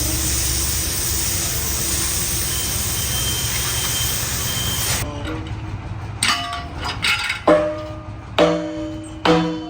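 Steady machine running noise with a low hum, cut off suddenly about halfway through, followed by a steel workpiece being struck about once a second, each blow ringing on at several pitches.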